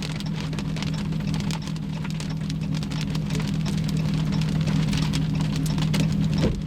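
Heavy rain pelting a vehicle's roof and windows, many sharp drop hits over a steady low hum from the vehicle.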